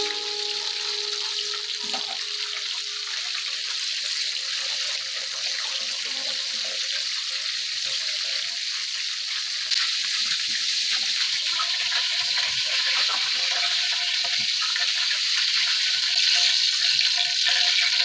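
Breaded chicken pieces deep-frying in hot oil: a steady sizzle that grows a little louder about ten seconds in and again near the end.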